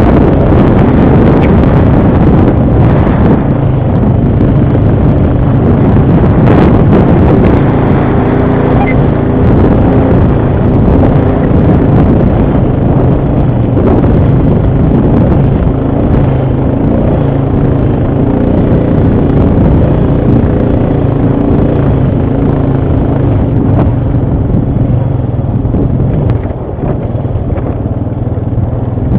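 ATV engine running steadily under way, with rough rumble from the ride over the terrain; it eases off slightly near the end.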